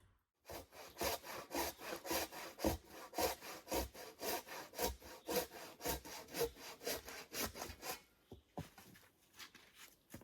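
Hand saw cutting through wood in steady back-and-forth strokes, about three a second, stopping about eight seconds in, with a few faint knocks after.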